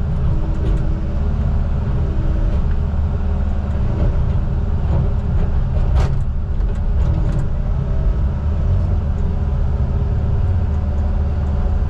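Heavy diesel engine of logging equipment running steadily, with a few brief tones and a sharp click about six seconds in.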